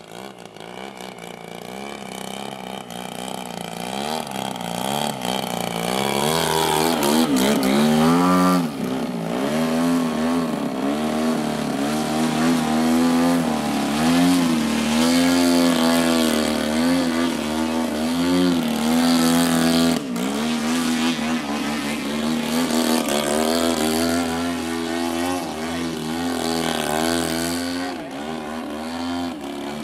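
Gasoline engine of a 35%-scale Hangar 9 Extra 300 radio-controlled aerobatic plane in flight. It grows louder over the first several seconds, then its pitch and loudness keep rising and falling as the throttle and the plane's distance change through 3D manoeuvres.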